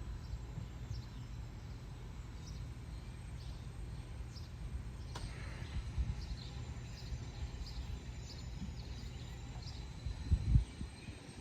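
Outdoor ambience: a steady low rumble with faint, short bird chirps scattered through it, and a bump about ten and a half seconds in.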